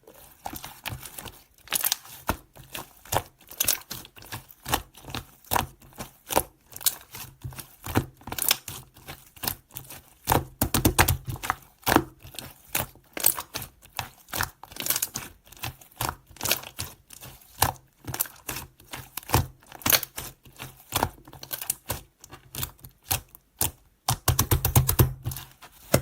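Slime being squeezed and pressed by hand, giving an irregular series of sticky clicks and pops, a few a second, with denser crackly bursts about halfway through and near the end.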